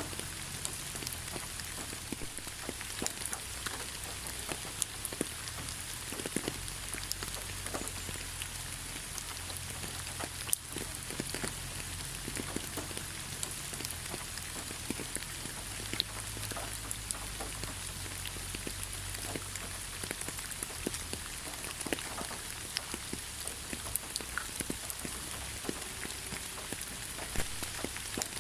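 Steady rain falling in a forest, with many individual drops ticking sharply on leaves and surfaces over an even hiss of rainfall.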